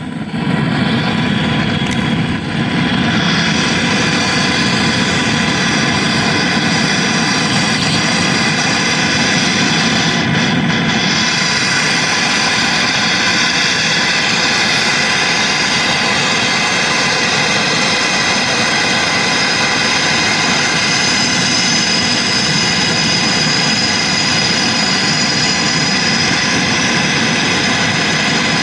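Small petrol lawn mower engine running steadily, starting about half a second in and then holding an even speed.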